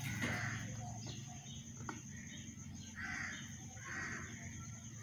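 Pet mynah birds giving short, harsh calls, with a louder call near the start and two more at about three and four seconds in.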